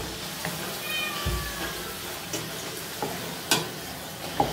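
Luchi frying in hot oil with a steady sizzle, while a wooden rolling pin knocks on a wooden rolling board a few times, most sharply near the end. About a second in there is a brief high call that falls in pitch.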